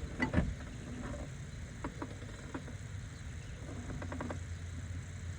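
A few light clicks and taps of hand tools and bolts being handled during engine disassembly, the loudest just after the start, over a steady low hum.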